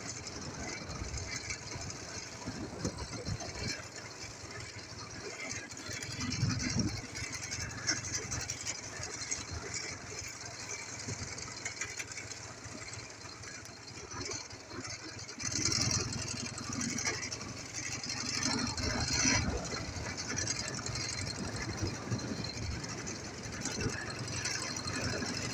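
Ural motorcycle's flat-twin engine running on a ride after a major overhaul, rough and steady, getting louder about two-thirds of the way through.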